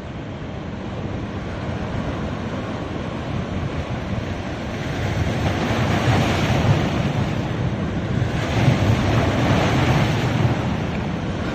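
Ocean waves washing onto a beach, a steady surf noise that swells with a wave breaking about halfway through and another near the end.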